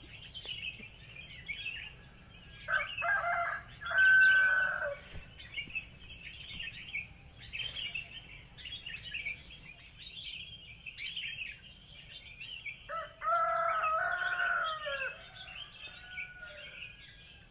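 Bird calls picked up in the background: one long, pitched call a few seconds in and another about ten seconds later, over continuous chirping of small birds.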